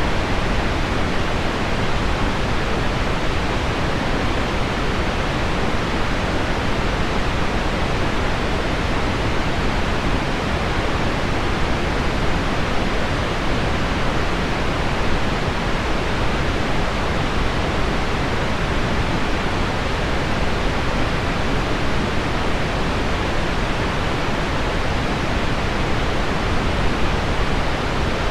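Heavy rain on window glass blended with deep pink noise: a steady, even hiss, heaviest in the low and middle range, with no change in level.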